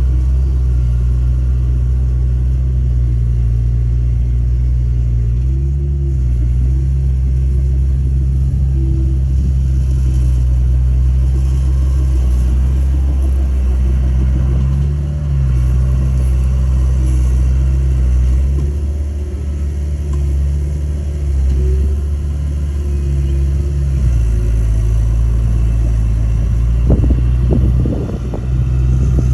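Heavy diesel engine of earthmoving equipment running steadily, its low pitch shifting slightly now and then as the load changes. A short burst of clattering comes near the end.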